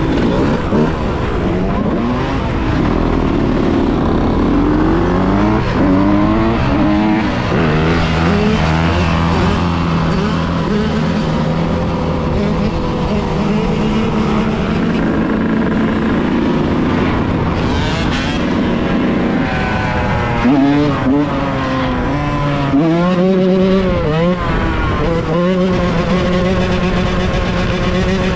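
Yamaha YZ125's single-cylinder two-stroke engine under way, revving up and dropping back again and again as it is ridden through the gears, with steady stretches between the revs.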